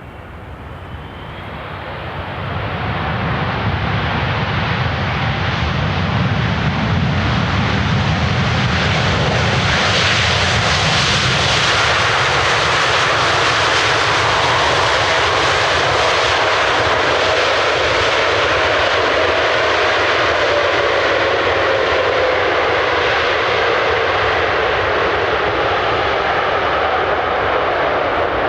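Jet airliner's engines loud and close, rising over the first three seconds to a steady rush. A deep rumble fades after about ten seconds as a higher hiss takes over, and a tone slowly falls in pitch in the second half as the aircraft passes.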